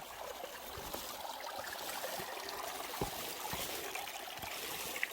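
Mountain stream water trickling steadily, with a few soft low thumps spread through it.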